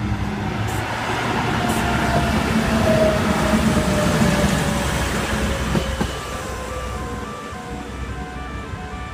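Passenger train running past the platform, louder to a peak then easing off, with a whine that falls steadily in pitch.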